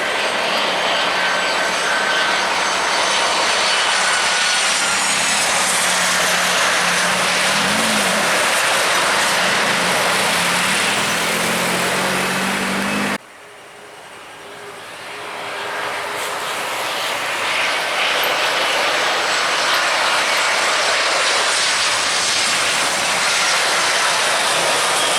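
Airliner engines passing close by, a loud rushing noise with a high whine that falls in pitch as the aircraft goes past. About halfway through the sound cuts off abruptly. A second airliner then swells up over a few seconds, and its whine starts to fall near the end.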